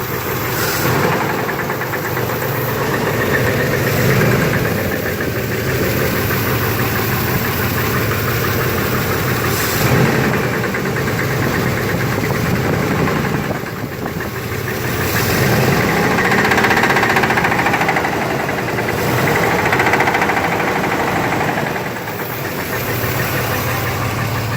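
1991 Chevy S10's V6 engine running with a knocking noise, its level rising and easing several times. The owner cannot place the knock and wonders whether it is the flywheel or the engine itself.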